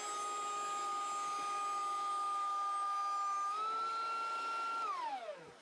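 DeWalt DW735X thickness planer's motor running with a steady high whine. The pitch steps up slightly a little past three seconds in, then the planer is switched off and the whine winds down near the end.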